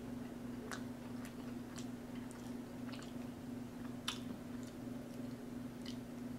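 Close-miked mouth sounds of chewing chicken fries: soft, wet clicks and smacks spaced irregularly about every half-second to second, with a finger lick near the end, over a steady low electrical hum.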